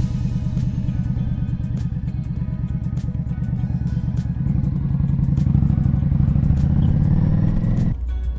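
Indian Scout Bobber's V-twin engine running just after start-up, a deep, steady pulsing idle that grows a little louder past halfway and cuts off suddenly near the end.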